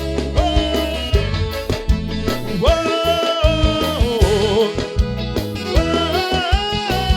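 Live band playing a romantic pop song: drums keeping a steady beat under a bass line, with a held melody line that wavers near the middle.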